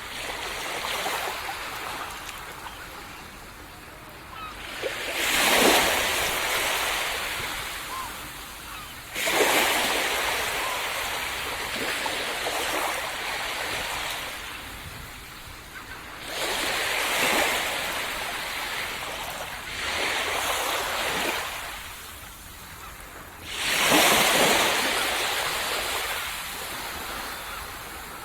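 Small sea waves breaking on a sandy beach: a wave washes in every few seconds, each surge rising quickly and then fading in a long hiss as the water runs back.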